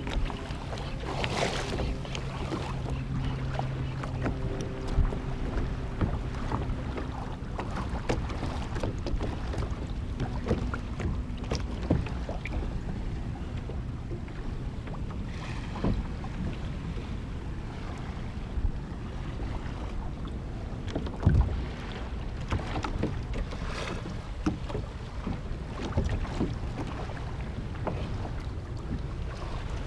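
Water splashing and lapping around a kayak on the water, with irregular small splashes and knocks and wind on the microphone.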